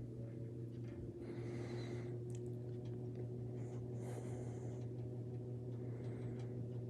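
Older Galaxy box fan's electric motor humming steadily, running very slowly on its low setting, with a few faint rustles.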